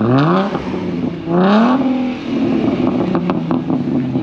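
Car engine revved twice, its pitch rising quickly each time and then holding at a raised, steady note. A few sharp clicks come about three seconds in.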